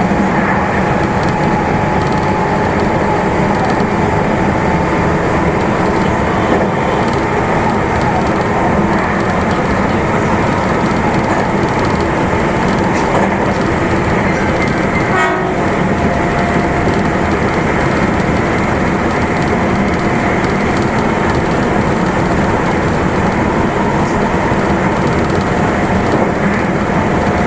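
Meitetsu Nagoya Main Line limited express electric train running at steady speed: a continuous rumble of wheels on rail with a few faint steady tones over it.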